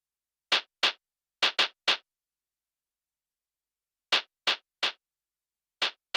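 Elektron Syntakt drum machine's SP Twin Shot machine playing short, bright percussive hits, dry with no effects. About nine hits come in clusters of two or three, with silent gaps between the clusters.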